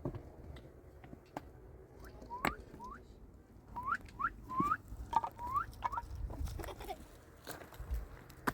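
A small animal giving a string of about ten short, rising squeaks, starting about two seconds in, with a few faint knocks.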